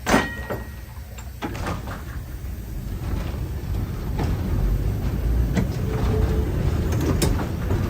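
Chicago Surface Lines streetcar #1374: a sharp clunk just at the start, then the car getting under way, its low rumble growing louder with scattered clicks from the wheels on the track.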